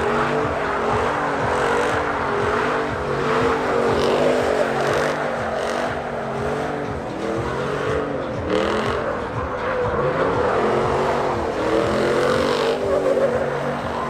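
Truck engine held at high revs during a burnout, its pitch wavering up and down over a steady hiss of spinning tyres.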